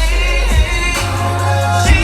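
Live R&B music played loud through a concert sound system: a heavy bass beat under held melodic notes, the bass dropping out for about a second midway.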